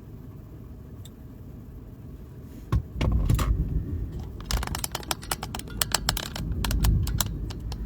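Rumble of thunder heard from inside a closed vehicle, rising about three seconds in over the low hum of the idling car and lasting several seconds. A run of sharp clicks and taps comes through it in the second half.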